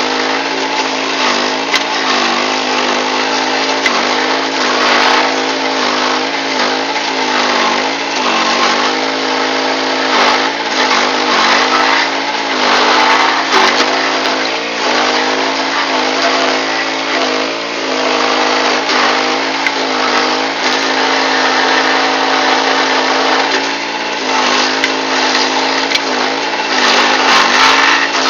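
Power King stump grinder's engine running hard while grinding a stump, its pitch dipping briefly every few seconds as the load comes on, over a steady rough grinding noise.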